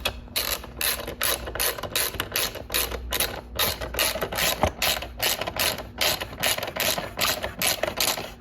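Ratcheting wrench clicking in quick, even strokes, about three to four a second, as short bolts are run into the motorcycle's plastic side bodywork.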